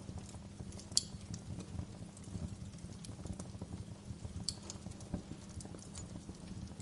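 Crackling wood fire in a fireplace: a steady low rumble of flames under frequent small irregular crackles, with sharper pops about a second in and again near the middle.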